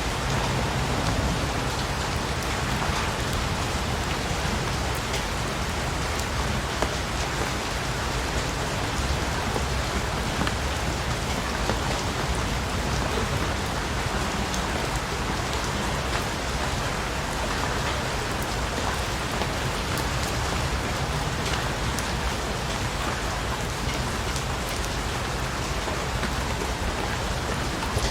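Steady rain falling and pattering on a surface, even and unbroken, with scattered individual drops ticking through it.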